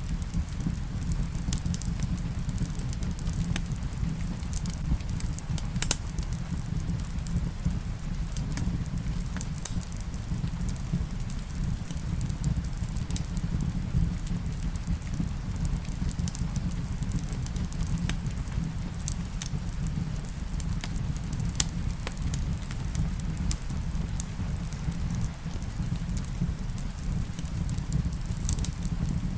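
Wood fire crackling, with irregular sharp pops and snaps throughout, over a steady low rumble of rain.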